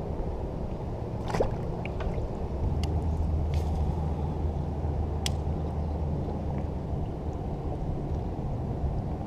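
A motor engine's low, steady drone, swelling from about two and a half seconds in and easing after about seven, with a few sharp ticks scattered through it.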